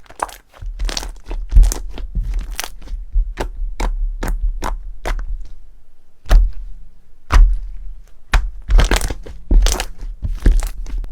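Crunchy slime being squeezed and pressed, giving a long run of sharp, irregular cracks and crunches.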